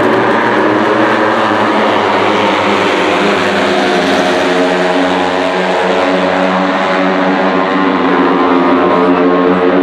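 Several racing motorcycle engines running at high revs together, a loud, steady, many-layered engine sound with slight rises and falls in pitch.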